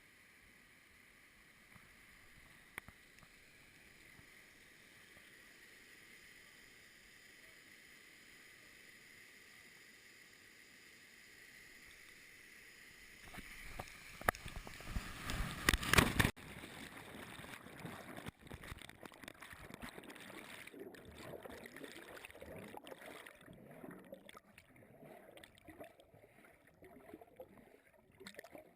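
Rushing, gurgling water, faint and steady at first, then a loud burst of noise about halfway through that cuts off suddenly, followed by rougher, uneven splashing water.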